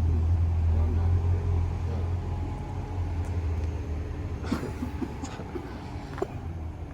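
Low rumble of a vehicle's engine, loud at first and fading as it moves away, with a few faint clicks.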